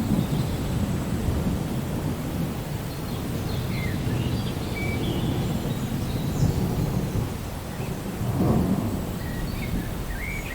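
Thunderstorm ambience: a continuous low rumble of thunder under the steady hiss of rain, swelling briefly about eight and a half seconds in.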